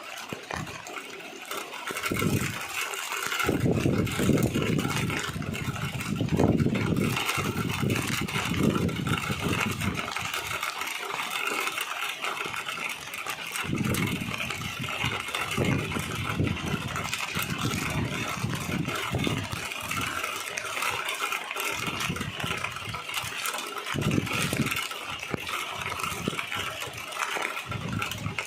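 Street traffic in the rain: vehicle engines rumble past in repeated swells over a steady hiss.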